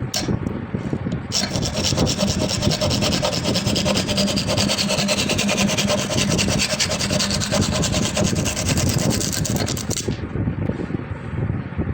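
Wood being rasped or abraded by a tool in a steady, continuous run that starts about a second in and stops shortly before the end.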